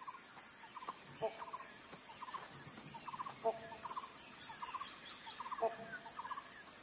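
Wild birds calling: a fairly faint, quick rattling call repeated over and over, with a lower call of a few notes about every two seconds.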